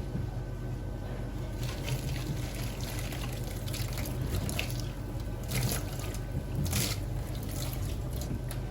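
Water trickling and splashing, as at a sink, with louder surges of splashing in the second half over a steady low hum.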